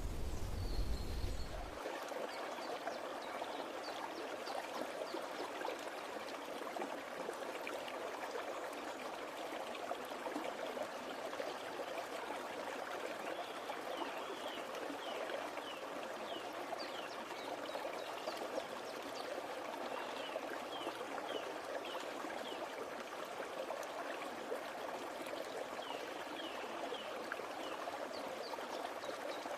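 Stream water running steadily, with short high chirps scattered over it. A low rumble stops about two seconds in.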